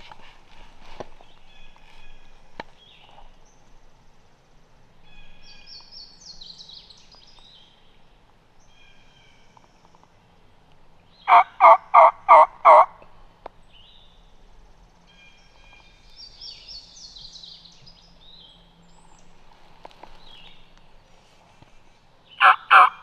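Turkey calling: a loud run of about seven evenly spaced hen yelps a little before the middle, and another run starting near the end. Small songbirds trill faintly in between.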